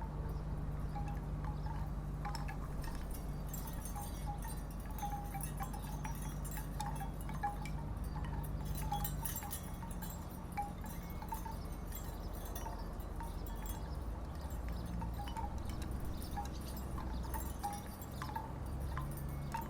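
Wooden tiki wind chimes knocking together in the wind, a scatter of short hollow tones at irregular intervals, over a steady low hum.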